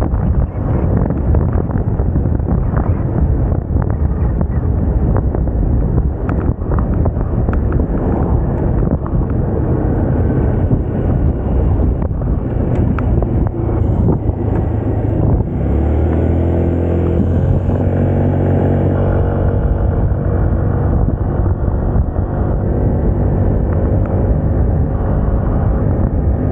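Wind buffeting the microphone on a moving Moda Moca 110 scooter, with the engine running underneath. About sixteen seconds in, a steady pitched engine hum stands out above the wind for about three seconds.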